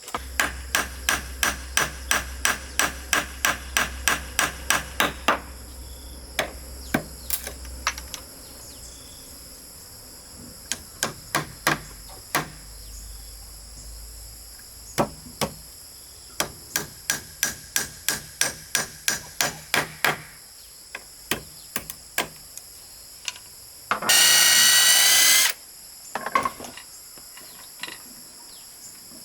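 Hammer blows in quick, even runs of about four strikes a second: one long run at the start and another in the middle, with single strikes between. A steady high insect buzz runs underneath, and a loud, harsh sound lasting about a second and a half comes near the end.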